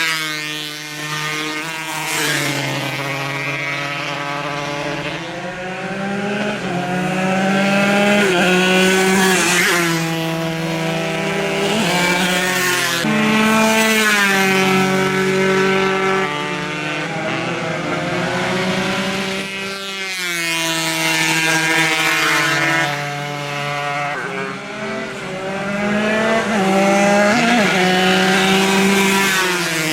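Several 140 cc two-stroke racing motorcycles revving hard, their engine notes climbing and then dropping again and again with the gear changes.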